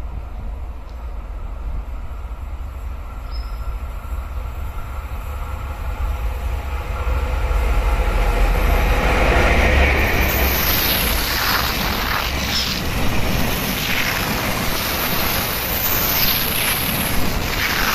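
Diesel-electric freight train passing: the locomotive's low engine rumble builds and is loudest about eight to ten seconds in as it goes by, then the wagons roll past with wheel clatter and high squealing from the wheels.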